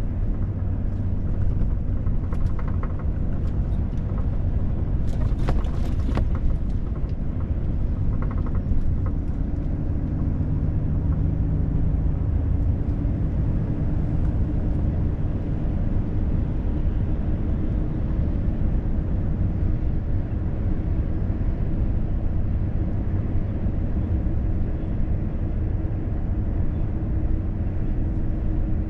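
Volvo FH truck driving at a steady speed on a motorway: a continuous low rumble of engine and road noise with a faint steady hum. A few brief clicks about five to six seconds in.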